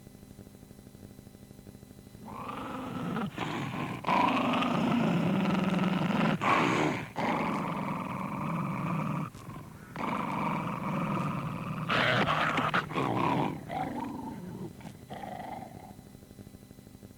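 Recorded animal sound effect: an animal growling in several long, rough stretches with short breaks, starting about two seconds in and trailing off near the end.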